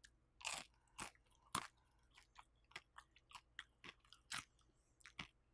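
Close-miked chewing of crisp air-fried vegetable gyoza: a string of sharp crunches and wet mouth clicks, about two a second, with the loudest crunches in the first second and a half.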